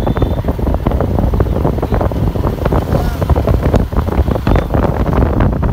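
Wind buffeting the microphone on a moving bike, with irregular gusty blasts over a continuous low rumble.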